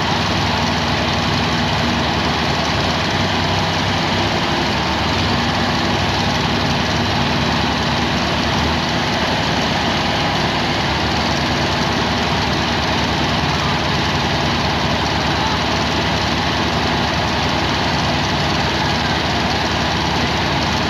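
Tractor diesel engines running steadily, with no change in pitch or level.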